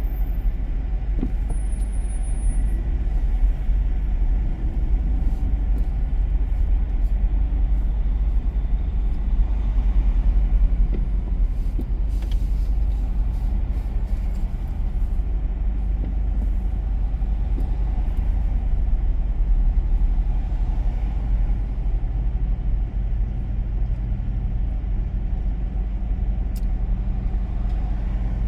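Car driving along a city street: steady low rumble of road and engine noise.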